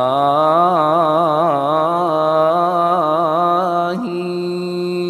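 A man's voice chanting a long wordless melodic phrase in a supplication recitation, its pitch wavering in quick ornaments. About four seconds in it settles into a steadier held note.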